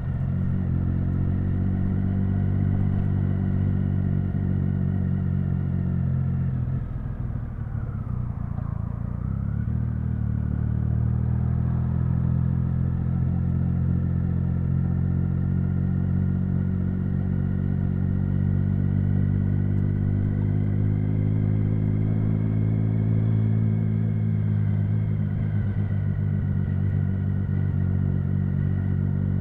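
Triumph Speed Triple 1050's inline three-cylinder engine running under way at a steady, moderate pace. It eases off about eight seconds in, dipping in pitch and level, then picks back up and holds steady.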